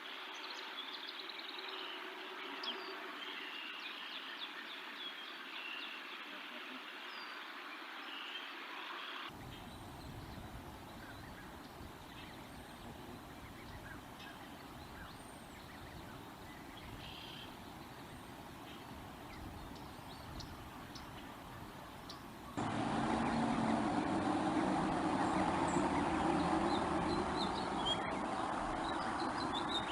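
Outdoor ambience from a nest-mounted microphone: a steady noisy rumble, like wind or distant traffic, with scattered short high bird chirps. The rumble gets clearly louder about two-thirds of the way through.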